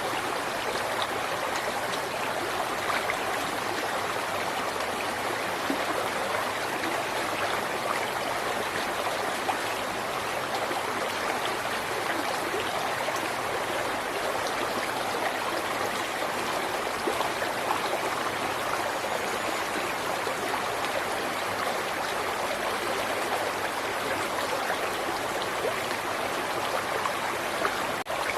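River water flowing over rocks, a steady rushing with fine splashing and gurgling.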